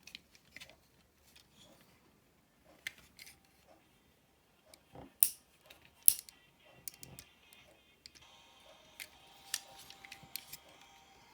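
Sharp clicks and light taps from the plastic joints and parts of a transforming robot toy figure as it is moved and posed by hand. The two loudest clicks come about five and six seconds in.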